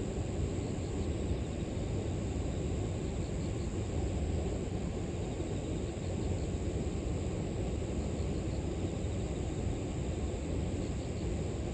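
River water flowing steadily, with grass insects (crickets) keeping up a constant high trill and a few faint short chirps.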